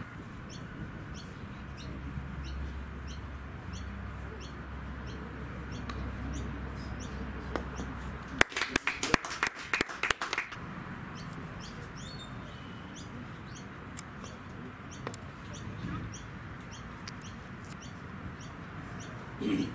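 A bird chirping over and over, short high calls about twice a second. About eight seconds in, a loud burst of sharp clicking and knocking lasts about two seconds.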